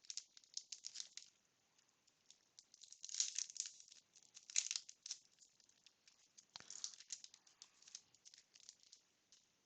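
Faint crinkling and rustling of a wax-paper baseball card pack being opened and its cards handled, in a few short bursts with quiet gaps between.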